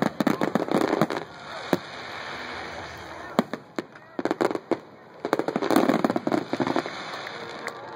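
Aerial fireworks shells bursting: sharp bangs and dense crackling in two thick volleys, during the first second and again from about five to seven seconds in, with scattered single reports between.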